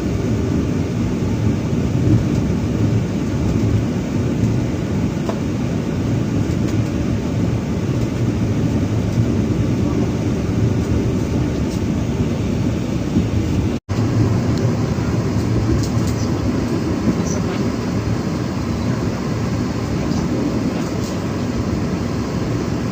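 Steady rumble of a passenger train running, heard from on board a carriage, broken once by a momentary dropout about two-thirds of the way through.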